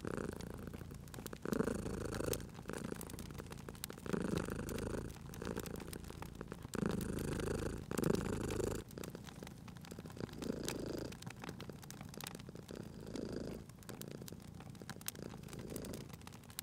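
Domestic cat purring in swells with each breath, weaker in the second half, over the faint snapping of a crackling fire.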